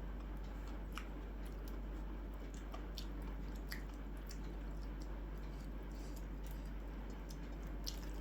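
A person chewing food, with scattered small wet mouth clicks over a steady low hum.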